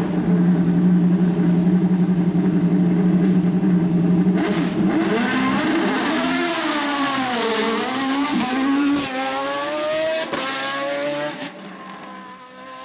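Race car's engine held at steady high revs on the start line, then launching about four and a half seconds in and accelerating hard through several gears, its pitch climbing and dropping at each shift. It grows quieter near the end as the car pulls away.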